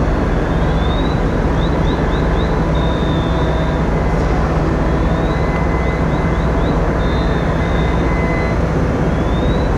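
Fire apparatus engines and pumps running at a working fire, a steady loud rumble. Over it, a high electronic signal repeats about every four to five seconds: a rising sweep, a quick run of short chirps, then a held tone.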